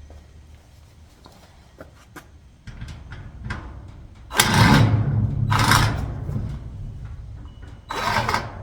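Garage door lock hardware being tightened and handled against the door: a few light clicks, then loud scraping and rattling, loudest about four and a half seconds in and again near the end.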